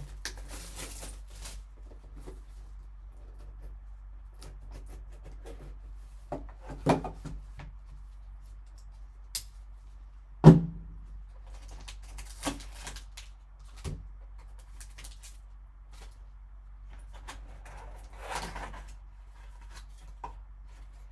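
Unsealing and handling a sealed box of sports cards: crinkling and rustling of the wrapping and packaging, with scattered clicks and knocks of cardboard and plastic, the loudest knock about ten seconds in.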